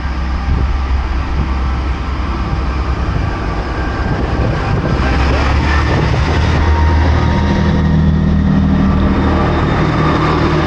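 Class 158 diesel multiple unit's engines running at the platform, a steady low rumble whose note rises and strengthens about six seconds in. It is a fairly quiet train.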